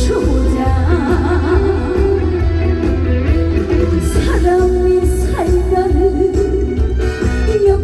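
Live trot singing by a female singer over band accompaniment with a strong, steady bass.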